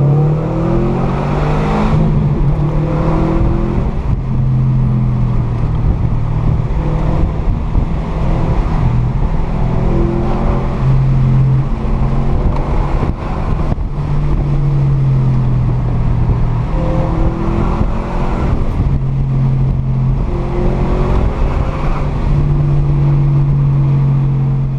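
Subaru flat-four engine and exhaust heard from inside the cabin while driving: a steady low drone that rises and settles in pitch with the throttle, over tyre and road noise.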